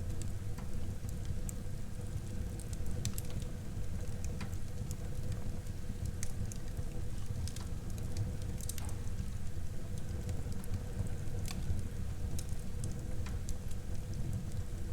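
Wood fire burning in a fireplace: a steady low rumble of flames with scattered sharp crackles and pops, a dozen or so spread irregularly.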